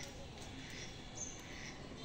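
Faint outdoor background noise with a few short, high bird chirps.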